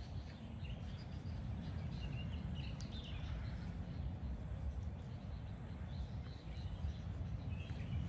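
Outdoor ambience: a steady low rumble with a few faint bird chirps, about three seconds in and again near the end.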